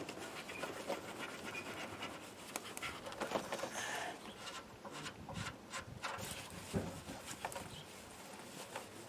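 Irregular rubbing and scraping with scattered clicks and knocks from hand work on the removed parts.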